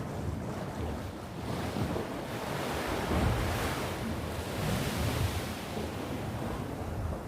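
Sea waves breaking and washing on the shore, with a wave surging in its hiss about midway and falling away again, and some wind buffeting the microphone.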